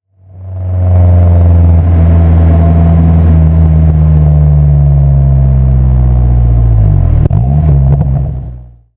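Honda S2000 AP2's 2.2-litre four-cylinder heard at the tailpipe through an Invidia V4 Q300 exhaust, a steady drone under way whose pitch sinks slowly. About seven seconds in the pitch and level dip briefly and come back. The sound fades in over the first second and fades out near the end.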